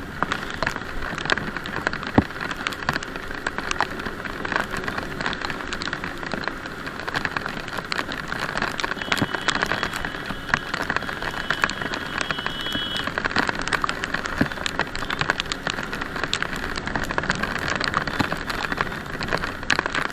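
Rain falling as a steady hiss, with many sharp ticks of drops striking close to the microphone. A faint high steady tone sounds for about four seconds near the middle.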